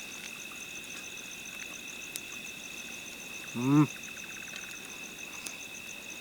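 Night chorus of insects and frogs: two steady high shrill tones and a fast, even pulsing trill above them. About three and a half seconds in, a short voiced sound rises briefly over it.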